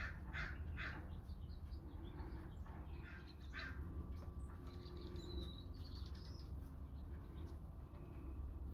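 Wild birds chirping at a feeder with short, scattered high calls, over a faint steady low rumble.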